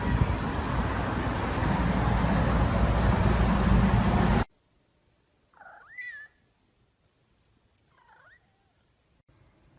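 A loud, steady rushing noise that cuts off abruptly about four and a half seconds in, followed by a domestic cat meowing twice, about two seconds apart, the second meow fainter.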